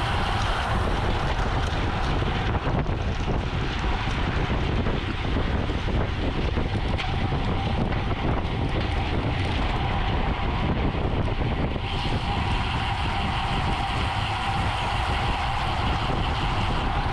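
Steady wind rushing over the microphone of a bicycle ridden at race speed, with road and tyre noise beneath it.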